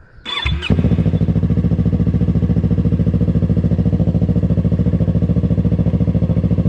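Yamaha R3 with an aftermarket M4 Street Slayer exhaust started up: a brief whir of the starter, the engine catches under a second in, then settles into a loud, steady, evenly pulsing idle.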